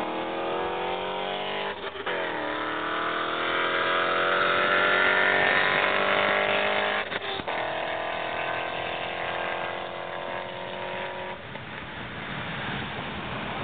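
Car engine at full throttle, heard from inside a car, rising in pitch through the gears with shifts about 2 and 7 seconds in. About 11 seconds in it lets off, leaving wind and road noise.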